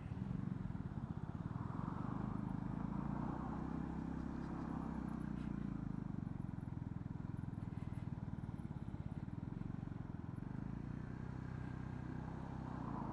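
Honda CB125R's single-cylinder four-stroke engine running steadily as the motorcycle is ridden.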